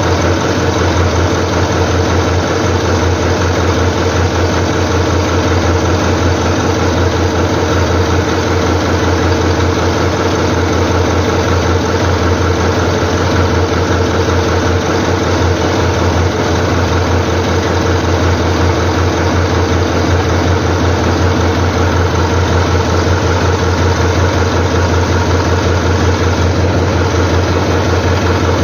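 ND-3 engine idling steadily with an even, rapid beat. This engine's oil is not getting up to the cylinder heads.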